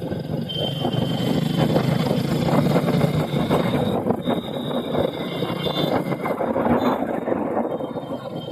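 Motorcycle engine running steadily, with a thin high tone that comes and goes.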